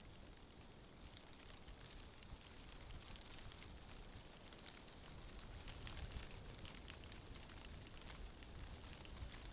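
Faint wind with a low rumble and a fine crackling rustle, as of leaves and branches moving, swelling a little partway through.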